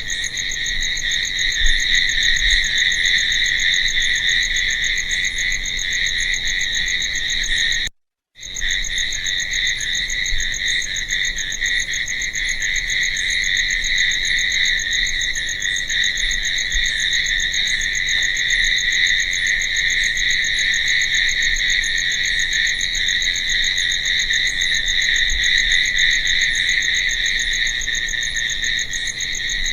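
Crickets chirping in a steady, continuous night chorus, with fainter, higher chirps repeating over it. The sound cuts out completely for about half a second around eight seconds in, then resumes.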